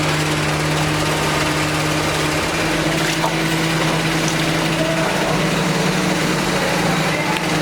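Steady hum of a running machine motor with a faint hiss; its pitch steps slightly about two and a half and five seconds in.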